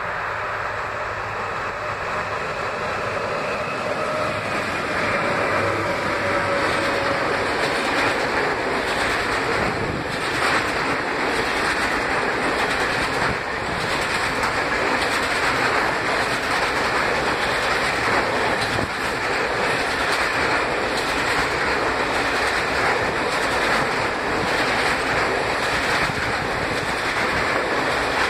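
Freight train hauled by a VR Sr1 electric locomotive rolling past, its wagon wheels clacking over the rail joints. It grows louder over the first few seconds, then holds steady.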